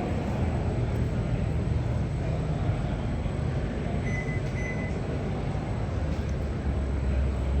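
Low, steady rumble of car engines running, with two short high beeps in quick succession a little over four seconds in.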